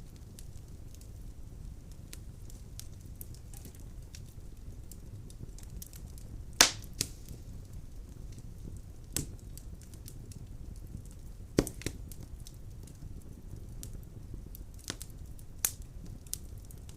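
Wood fire burning in a fireplace: a steady low rumble of flames with constant small crackles and several loud sharp pops of burning logs.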